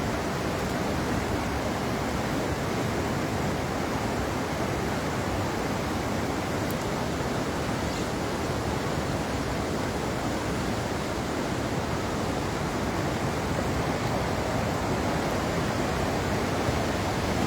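Fast-flowing floodwater rushing in a steady, unbroken roar.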